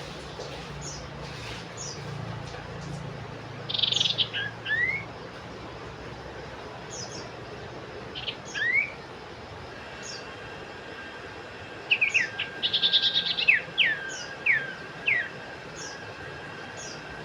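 Iora (cipoh) singing: quick rising whistled notes and short rapid trills in three bursts, the longest past the middle. Faint high chirps repeat throughout.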